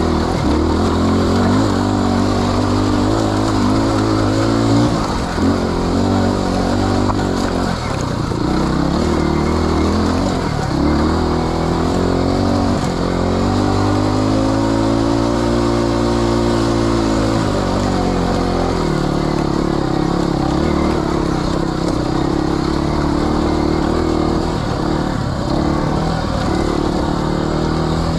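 Off-road motorcycle engine running under constantly changing throttle, its pitch going up and down, with one long smooth rise and fall of revs in the middle.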